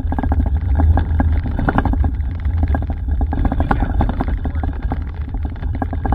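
Inside a moving vehicle: a steady low road rumble with many irregular small clicks and rattles over it.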